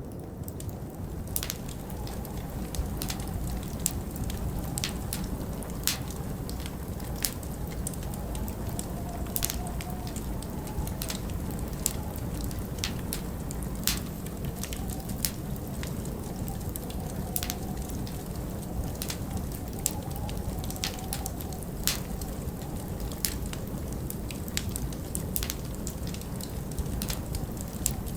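Wood fire crackling, with irregular sharp pops and snaps every second or so over a steady low rushing of winter wind.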